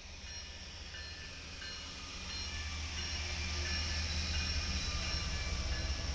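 Diesel locomotives of a BNSF freight train and an Amtrak passenger train passing close by: a deep engine rumble and wheel-on-rail hiss growing louder, with short thin high squeals here and there.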